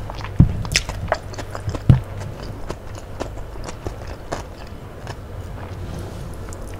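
Close-miked chewing and wet mouth smacks of someone eating soft fried tofu in thick peanut sauce, with a scattering of sharp clicks. The clicks are loudest in the first two seconds, with another about four seconds in.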